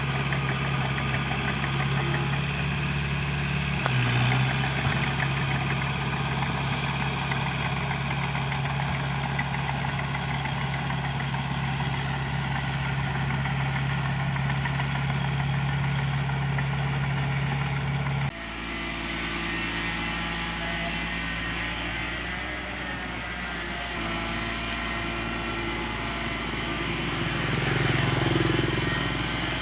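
An earthmoving machine's diesel engine running steadily. A little past halfway the sound changes abruptly to a different, lower engine note, which grows louder near the end.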